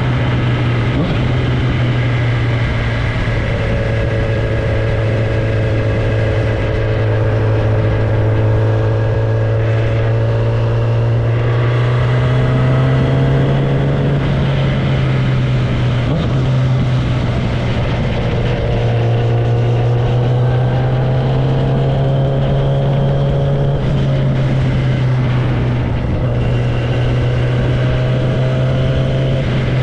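Kawasaki ZX-10R inline-four running loud through an exhaust with no tailpipe, held at a steady cruise. The pitch rises and falls slowly a few times as the throttle and speed change.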